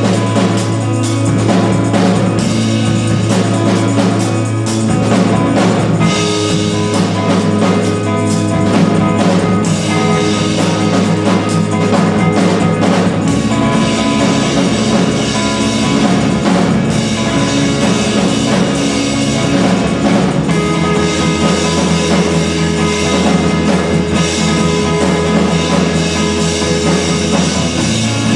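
Live band playing an instrumental passage: a drum kit keeps a busy beat over long held low bass notes, which drop lower about halfway through and change again about two-thirds of the way in.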